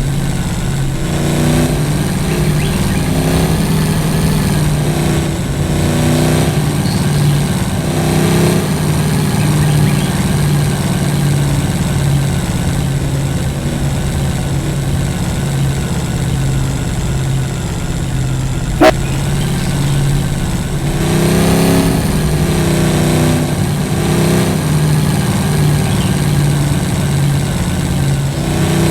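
A vehicle engine running steadily while driving off-road, its pitch rising and falling with the throttle. A single sharp knock sounds about nineteen seconds in.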